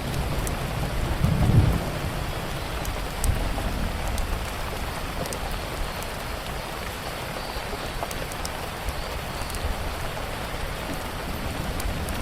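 Steady rain falling, with scattered sharp crackles and pops from a wood fire. A low rumble swells briefly about a second and a half in.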